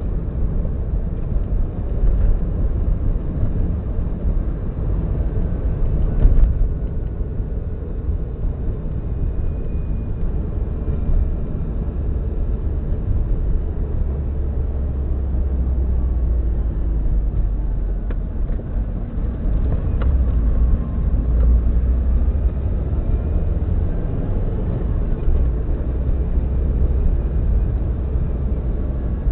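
Subaru WRX EJ205 turbocharged flat-four engine running steadily with a misfire in cylinder 3, which the owner supposedly puts down to a cracked valve.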